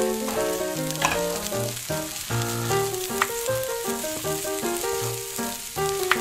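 Garlic sizzling in hot oil in a small stainless saucepan, a steady fine hiss with three short clicks about one, three and six seconds in. Melodic background music plays throughout.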